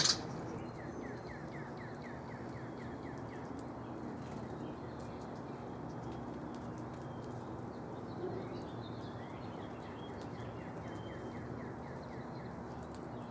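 A small songbird singing a rapid trill of short falling notes, about five a second, for about three seconds, then a shorter trill about eight seconds in. Steady outdoor background noise throughout.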